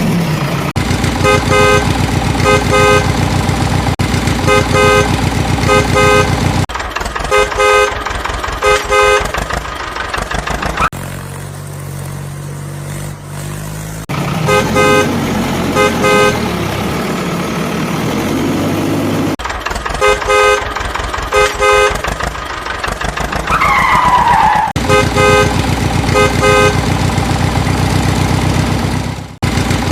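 Vehicle horn beeping over and over in quick short toots above a steady engine drone. The beeps break off for a few seconds of lower engine hum partway through, and a single falling whistle-like glide sounds later on.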